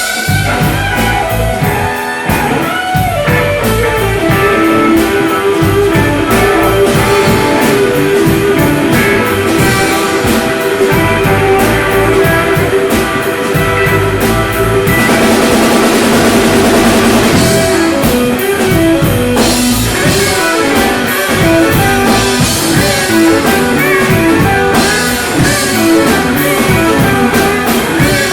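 Rock band playing a blues-rock song, with electric guitar over a drum kit and no singing.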